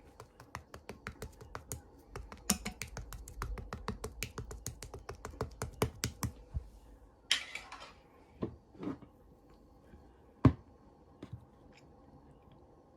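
Slime being squeezed and pressed in the hands, giving a fast run of small clicking pops for about six seconds, then a brief squishing rustle and a few scattered pops, the loudest a sharp snap near the end.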